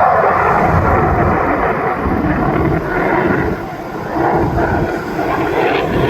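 US Navy F-35C's single turbofan jet engine in a demonstration pass: loud, rushing jet noise that swells suddenly at the start with a falling pitch, then holds steady.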